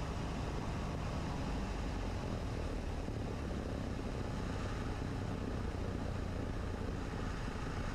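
Cessna 150's four-cylinder Continental O-200 engine and propeller running steadily, throttled back during a landing, heard from inside the cockpit as an even drone with wind noise.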